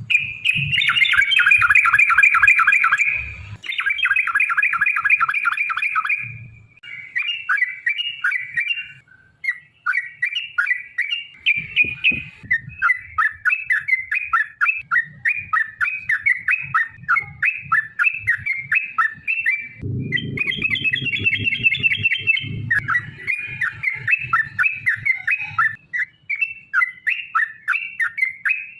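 Yellow-vented bulbul singing long runs of fast, repeated chattering notes, one rolling phrase after another with only brief breaks.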